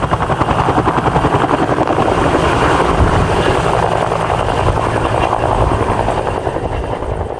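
Bell UH-1J helicopter (Fuji-built Huey) running, with the rapid, regular beat of its two-bladed main rotor. It is a little louder around the middle and eases slightly toward the end.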